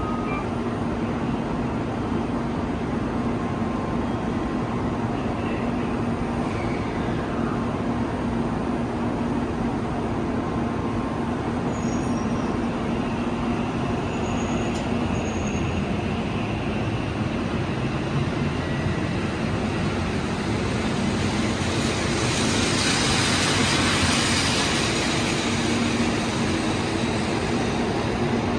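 Shinkansen Nozomi train pulling out of the station: a steady hum under low rolling noise, then a rising rush of air and wheel noise about three-quarters of the way through as the train gathers speed past the platform.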